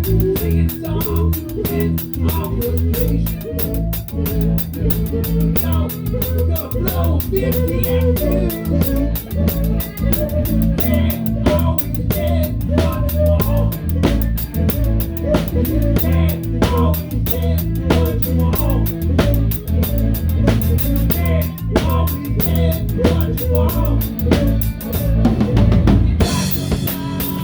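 Live rock band playing an instrumental passage, with a close, loud drum kit keeping a steady beat on kick, snare and cymbals over bass and guitars. The snare is damped with a towel. Near the end the cymbals briefly drop out, then the full kit comes back in.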